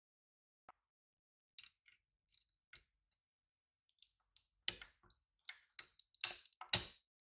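A series of sharp clicks and light knocks, a few faint ones at first, then a quicker run of louder clicks in the second half.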